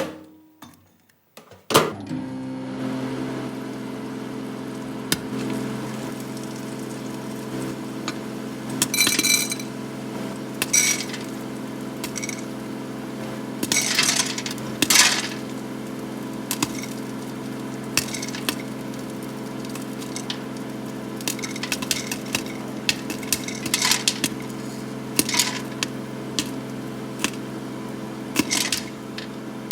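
Microwave oven starting with a click about two seconds in, then running with a steady hum, while popcorn kernels inside pop now and then in scattered sharp cracks.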